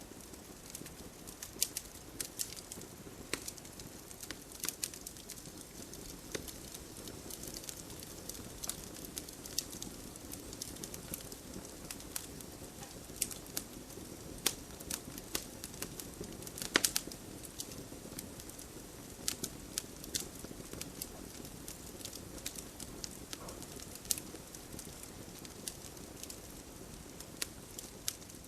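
Wood fire crackling: irregular sharp pops and snaps over a low steady hiss of burning, with one louder snap a little past halfway.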